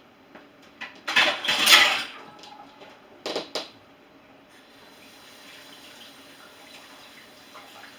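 Kitchen tap running in a short burst of about a second while dishes are rinsed, then dishes clinking twice.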